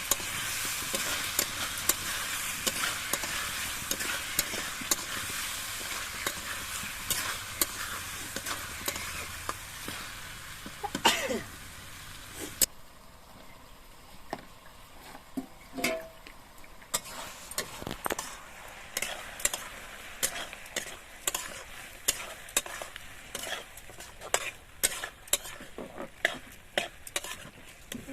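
Food frying in hot oil in a pan, stirred with a spatula that scrapes and taps against the pan. The sizzle is loud for the first twelve seconds or so, then drops off abruptly, leaving mostly the irregular clicks of stirring.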